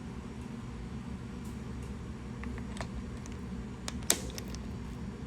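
Steady low machine-shop hum with a few light clicks and taps from tools being handled, the sharpest about four seconds in.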